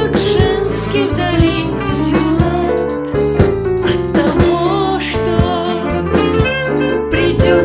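Tango song: a singer's voice with vibrato carrying the melody over piano accompaniment and a regular beat.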